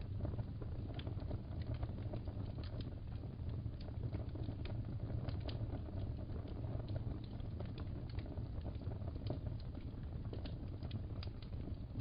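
Wood fire crackling in a fireplace: scattered small pops and snaps over a steady low rumble of flames.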